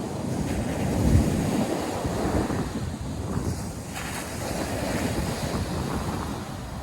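North Sea surf breaking and washing on a sandy beach, with wind buffeting the microphone. The rumble swells to its loudest about a second in.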